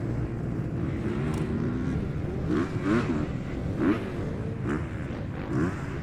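Several motocross bikes' engines revving together, their pitches rising and falling over one another, with louder bursts of throttle about three and four seconds in.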